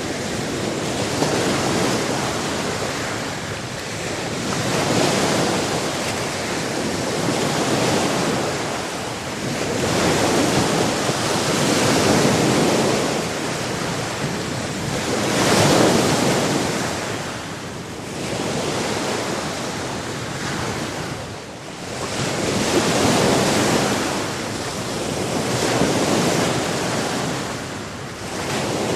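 Sea waves breaking and washing on the shore, a continuous rush that swells and ebbs every few seconds.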